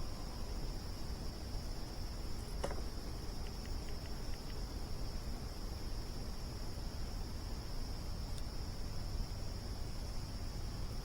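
A steady, unbroken chorus of crickets trilling. A single sharp pop comes about two and a half seconds in, followed by a few faint ticks, like a campfire crackling.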